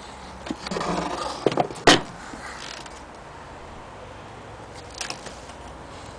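A short scrape, then a few sharp clicks and one louder knock about two seconds in, and a couple of faint clicks later: handling noise of hard objects being moved.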